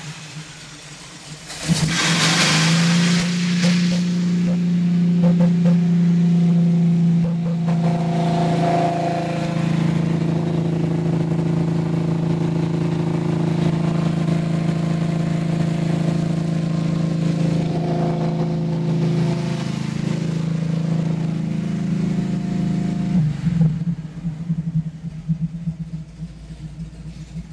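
A 1967 Pontiac Firebird's rebuilt 400 cubic-inch Pontiac V8 with Hooker headers and a 750 cfm Holley carburetor, running at a steady idle after a short rush of sound near the start. It gets quieter near the end.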